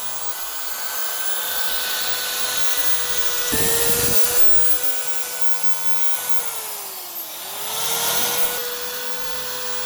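Small electric motor running steadily, with a loud steady whine. It steps up briefly about three and a half seconds in, then sags in pitch and recovers around seven seconds, as a motor does under load.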